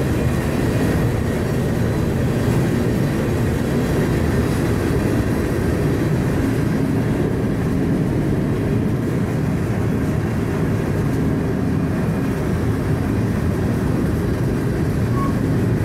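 Steady rumble of a moving freight train, heard while riding aboard one of its cars.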